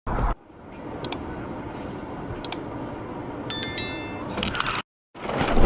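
Dashcam road and traffic noise: a sudden thump at the start, then a steady rumble with a few sharp clicks and a brief cluster of high ringing tones past the middle. The sound drops out briefly near the end and comes back louder.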